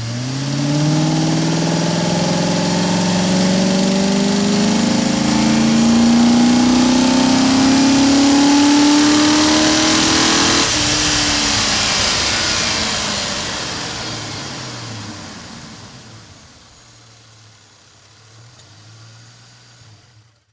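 Car engine accelerating, its pitch rising steadily for about ten seconds. After a break in pitch it fades away over several seconds to a faint low rumble, and the sound then cuts off.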